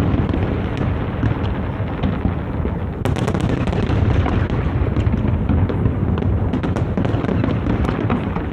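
Large aerial fireworks display: a dense, continuous barrage of booms and crackling shells, with a heavy low rumble throughout.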